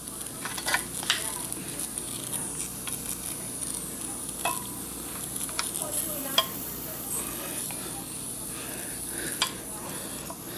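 A steady sizzling hiss from a small steam engine setup, with scattered light metal clicks and taps and a couple of brief squeaks as the engine is oiled by hand.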